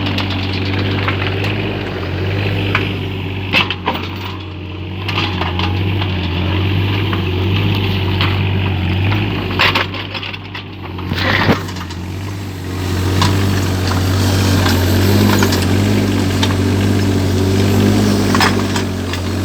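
Mini excavator engine running steadily, with scattered sharp knocks and clatters from the digging, the loudest about a third of the way in and just past halfway.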